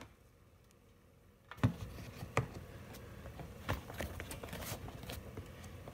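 A few light metallic clicks and knocks of a spark plug and tools being handled on a small engine, starting about a second and a half in, after a brief near-silence.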